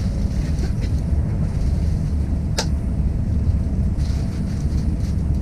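Steady low rumble of a train in motion, with one sharp click about halfway through.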